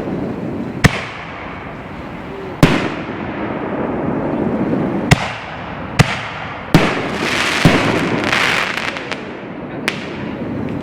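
5-inch aerial canister shells firing and breaking, about seven sharp booms spread unevenly with echoing tails, and a burst of crackling after the middle. Voices murmur underneath.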